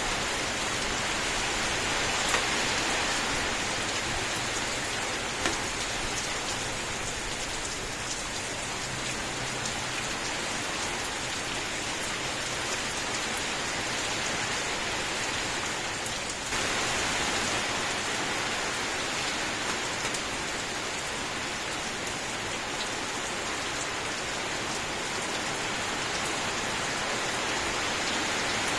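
Steady rain falling in a dense, even hiss, with two sharper single-drop ticks in the first few seconds. The rain gets slightly louder and brighter about halfway through.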